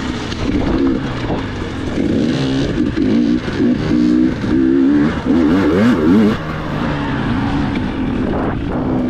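Dirt bike engine revving, its pitch climbing and dropping again and again as the throttle is worked, most sharply a little past the middle.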